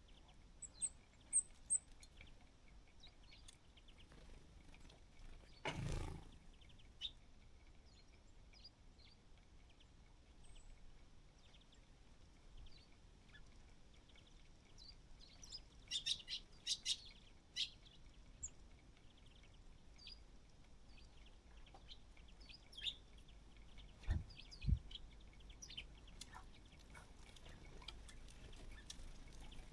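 Small birds at a feeder giving short, scattered high chirps, with a flurry of calls a little past the middle. A brief rushing burst comes about six seconds in, and two dull low thumps come near the end.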